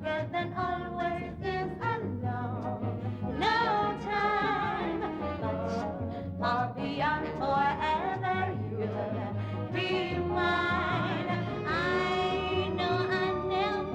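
Female voice singing a slow ballad with wide vibrato and held, gliding notes over a live band and orchestra.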